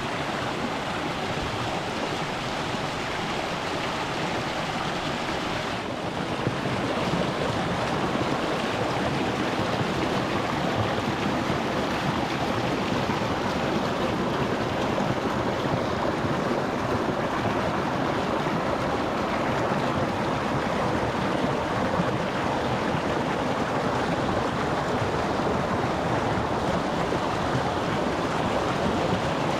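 Rocky mountain stream flowing over stones, a steady wash of running water that steps up slightly in level about six seconds in.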